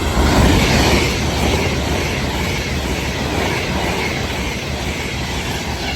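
Class 390 Pendolino electric train passing through at speed: loud, steady wheel and air noise that is loudest about half a second in and eases off near the end.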